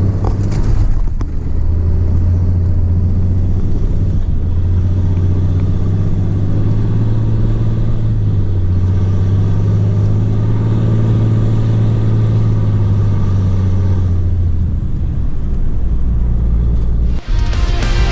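Straight-piped Cummins inline-six turbo-diesel truck running under way: a deep, steady exhaust drone whose pitch shifts only slightly. Music cuts in about a second before the end.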